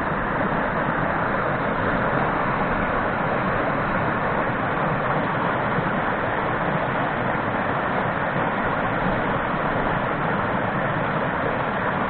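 Mountain stream water rushing steadily over rocks, a constant, even rush.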